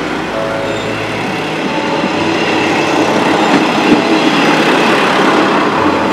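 JR West KiHa 40 diesel railcar passing over a level crossing, its wheels clattering over the rail joints and growing louder as it draws level, with sharp clunks about four and six seconds in. The crossing alarm keeps ringing behind it.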